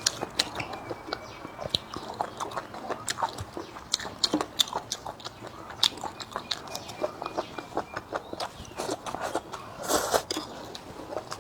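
Close-up eating sounds: a person biting and chewing food, with irregular crunches and small clicks all through and a louder cluster about ten seconds in.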